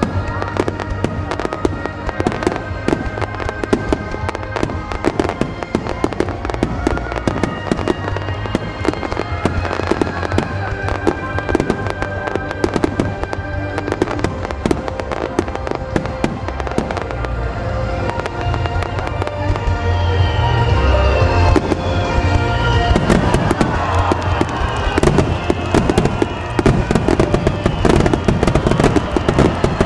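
Aerial fireworks shells bursting and crackling in rapid succession over music with sustained tones. About twenty seconds in, the bursts get louder and denser.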